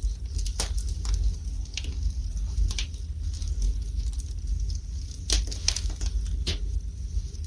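Wood fire burning in a fireplace, crackling with irregular sharp pops over a steady low rumble. The strongest pops come about half a second in and again in a cluster about five to six and a half seconds in.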